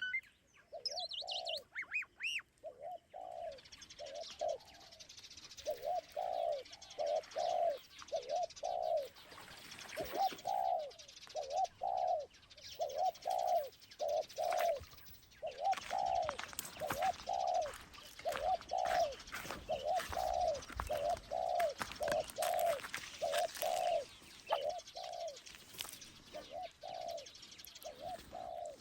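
Doves cooing in a steady run of short, low notes, about one to two a second, with fainter chirping of smaller birds above.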